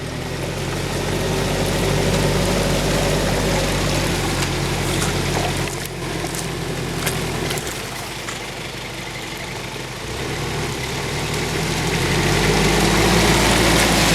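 An off-road SUV's engine pulling under load in deep mud. The revs rise over the first couple of seconds, drop off about six seconds in, and build again near the end.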